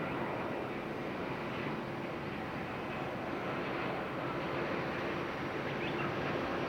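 Steady rushing jet noise of an All Nippon Airways Boeing 787-8 on final approach, its Rolls-Royce Trent 1000 turbofans running at low approach power, with a few faint steady tones over the rush.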